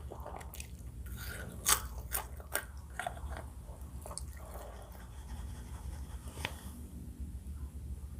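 Close-miked chewing with a run of sharp, crisp crunches about one to three seconds in and one more near the end, over a low steady hum.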